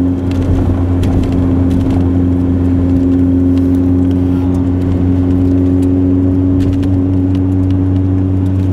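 1999 Ford Ranger pickup driving at steady speed through snow drifts, heard from inside the cab: a steady, even engine and road drone with a strong low hum, and scattered faint ticks.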